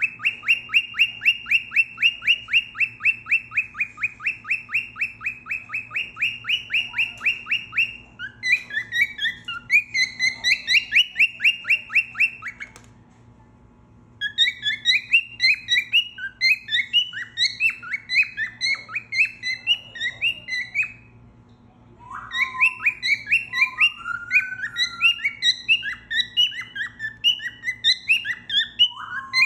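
Cockatiel whistling and chirping in rapid runs of short, high notes, about five a second, breaking off briefly twice.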